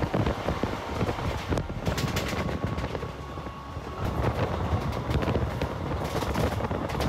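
Passenger train running at speed, heard from an open coach door: wheels rumbling on the rails, with sharp clacks about two seconds in and again near six seconds.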